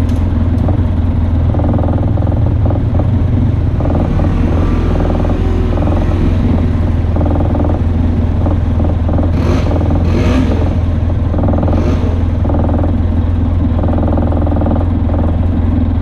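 Off-road vehicle engine running steadily under way, a strong low drone with no break, and a few short rushes of noise between about nine and twelve seconds in.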